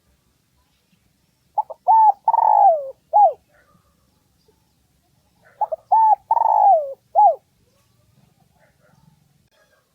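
Spotted dove cooing its phrase twice, about four seconds apart. Each phrase is a quick short note, an arched coo, a longer coo that slides down at the end, and a last arched coo. It is a decoy call used to provoke rival males into coming to fight.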